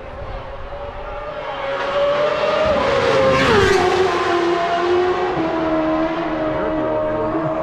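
Superbike racing motorcycle approaching at full throttle and passing at very high speed, its engine note dropping sharply in pitch as it goes by about three and a half seconds in, then running on at the lower pitch as it heads away.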